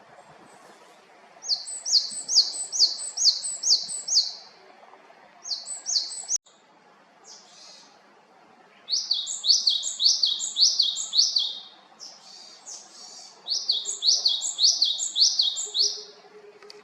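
Japanese tit (Korean great tit) singing: bouts of a quick, high, repeated note-pair phrase, about three to four notes a second, with short pauses between bouts.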